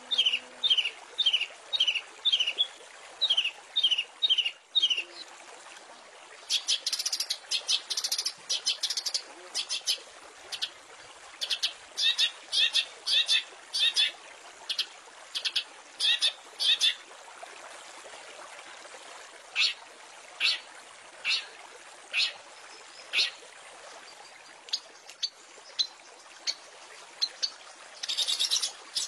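Long-tailed shrike (cendet) singing: a run of quick repeated notes, about three a second, then clusters of short rapid notes and scattered single calls, with a new burst near the end.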